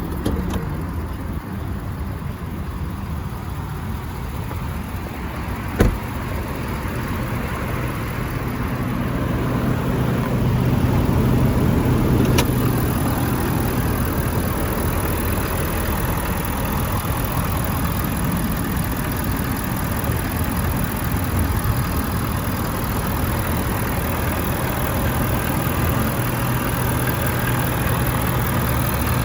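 Ford 6.7L Power Stroke V8 turbo diesel idling steadily, growing somewhat louder about eight seconds in, with a sharp click about six seconds in.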